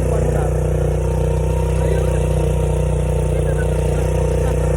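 Small motorbike engine running at a steady, unchanging pitch.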